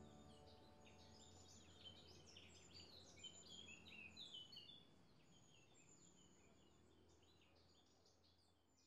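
Faint chorus of small birds chirping and twittering, many short rapid calls overlapping, fading out toward the end. A low held note from the closing music dies away in the first few seconds.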